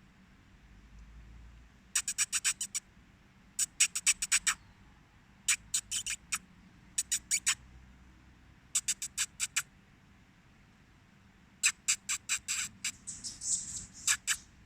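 A tree squirrel's chattering alarm call: bouts of sharp, rapid chips, about eight a second, repeated every second or two, with a longer, denser bout near the end.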